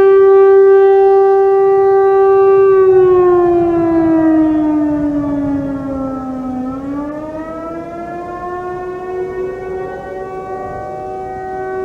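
Civil defence air-raid siren sounding an attack warning: a steady tone that slides down in pitch for about four seconds, then climbs back up to the steady tone.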